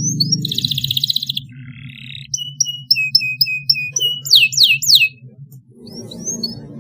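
Domestic canary singing: a fast buzzy trill, then a run of repeated whistled notes and quick downward-sweeping whistles, with short rising chirps near the end.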